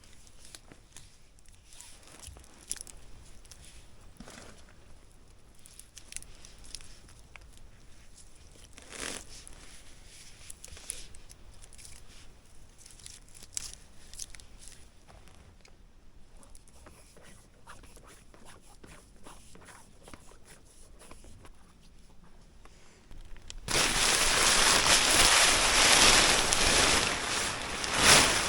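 A tarp being handled and rigged: crinkling and rustling of the sheet with scattered clicks and taps. About 24 s in the sound cuts abruptly to a loud, steady hiss.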